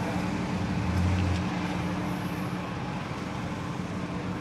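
Steady low mechanical hum over a broad background din, with a short low swell about a second in.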